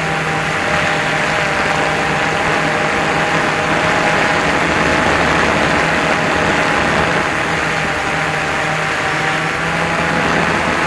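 DJI Phantom 2 quadcopter's motors and propellers running with a steady whine under a broad rush of wind noise.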